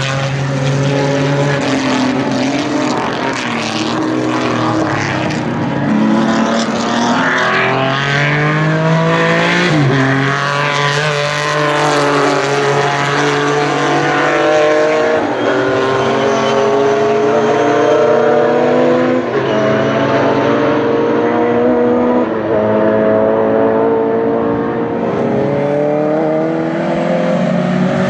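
Racing car engines at high revs, their pitch repeatedly climbing through the gears and dropping sharply at each shift, with more than one car heard at once.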